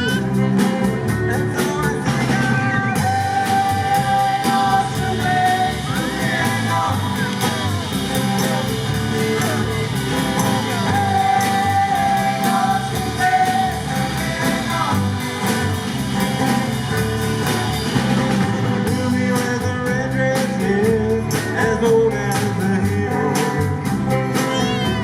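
Live rock band playing a song with a singer, electric guitar and a steady drum beat.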